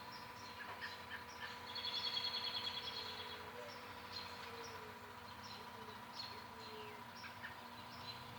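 Evening bird chorus: several songbirds chirping and singing in short high phrases, with a rapid trill about two seconds in. Under it runs a steady hum.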